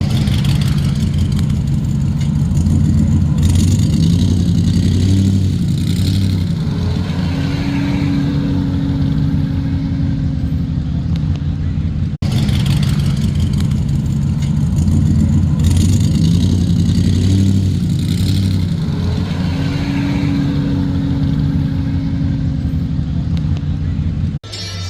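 Car engine running and revving. The same twelve-second stretch of engine sound plays twice, with a brief dropout about halfway.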